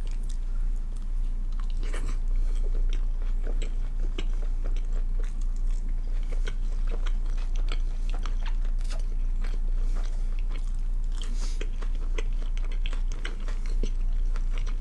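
A person chewing crisp food close to the microphone, with many small crunches throughout, over a steady low hum.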